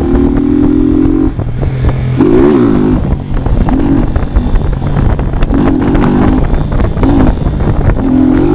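Motorcycle engine, rising steadily in pitch for about a second, then blipped in a series of short revs roughly every second and a half, over a constant low rumble of wind on the microphone.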